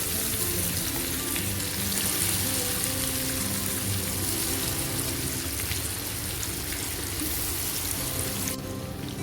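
Marinated chicken pieces sizzling and crackling in hot oil, over background music. The sizzle drops away abruptly near the end.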